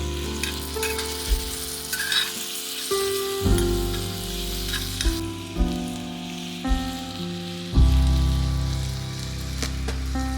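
Food sizzling as it fries, with a few sharp clicks of stirring. Background music of sustained chords changes every second or two underneath.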